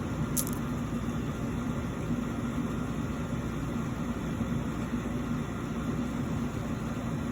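Steady low mechanical hum over background noise, with a brief sharp tick about half a second in.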